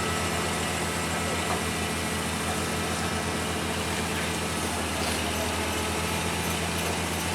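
Heavy vehicle's engine idling, a steady low throb that holds even throughout.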